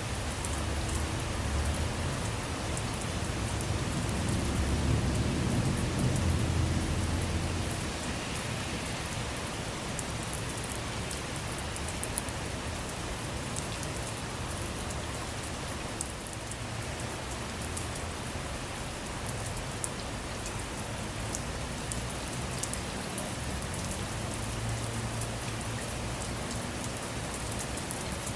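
Steady rain falling on a car, with many small drop ticks. A low rumble of thunder swells in the first seconds, peaks about five to six seconds in, and fades by about seven seconds.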